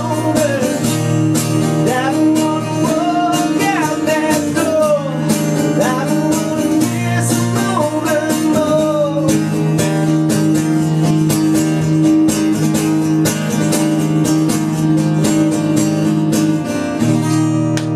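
Live acoustic guitar strumming the song's closing passage, with a sliding melody line over it in roughly the first half.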